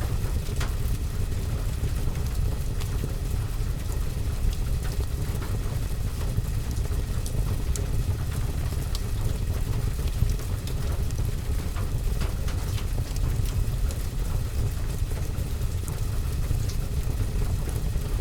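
Steady low rumble of rain on a roof and window, with a scattering of small sharp crackles from a wood fire.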